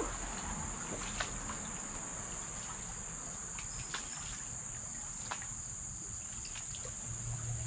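Steady high-pitched drone of insects chirring, with a few faint taps scattered through it.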